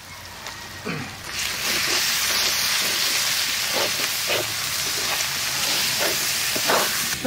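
Ginger-garlic paste sizzling as it goes into hot oil with frying onions in a steel wok. The sizzle grows loud about a second in and holds steady. A flat metal spatula scrapes the pan now and then as the paste is stirred in.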